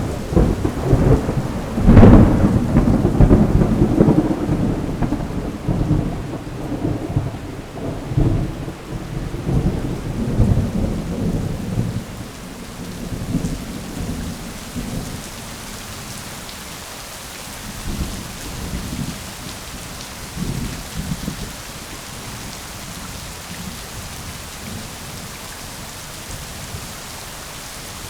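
Thunder cracking sharply about two seconds in and rolling in low rumbles that fade out over the next ten seconds, with a few fainter rumbles later, over steady rain.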